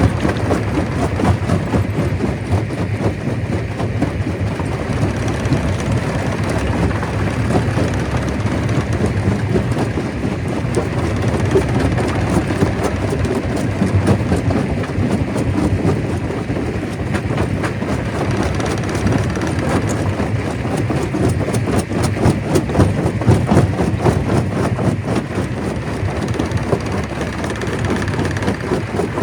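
Stone crusher running under load, crushing rock: a loud, steady mechanical rumble with a continual clatter of small knocks and rattles from the stones.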